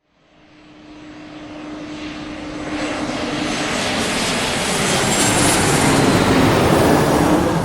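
Fixed-wing aircraft passing over. The engine sound fades in from silence with a steady low hum and grows louder to a peak near the end, then starts to fall away.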